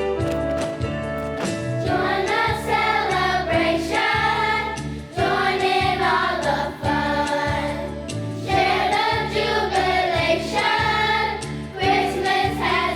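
Student choir singing a holiday song with instrumental accompaniment; the voices come in about two seconds in, after a short instrumental passage.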